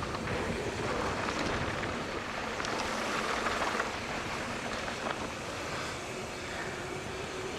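Steady wind rush and rolling noise on a GoPro mounted on a moving mountain bike, with a few light ticks and rattles.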